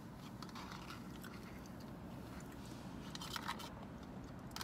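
Quiet chewing and crunching of takeout food, with scattered small clicks and a denser cluster of them about three and a half seconds in, over a low steady hum.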